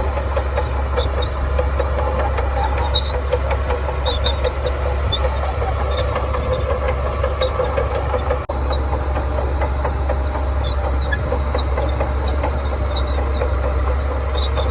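Shantui bulldozer's diesel engine running steadily, with a busy clatter of small knocks over it, broken by a momentary gap about halfway.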